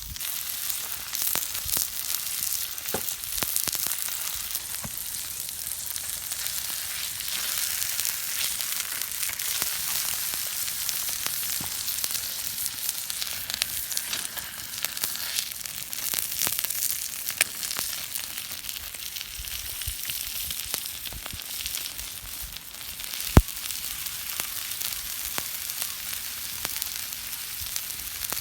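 Food frying in a pan: a steady sizzle with many small crackles, and one sharp click about three-quarters of the way through.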